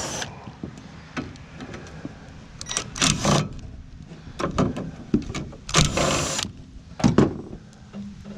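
Metal clanks, knocks and short scraping bursts from an air conditioner being taken apart by hand to pull out its copper. There are scattered sharp clicks, with about three louder, rougher bursts: around three seconds in, around six seconds in, and a brief one just after.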